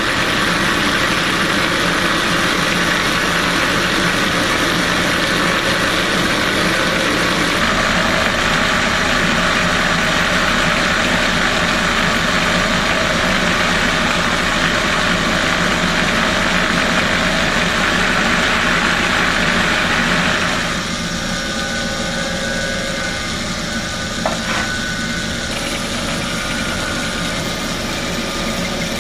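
Power drill cutting a steel loader-arm pin bore, running steadily under load. About two-thirds of the way through, the sound drops and changes, and a single sharp click comes a few seconds later.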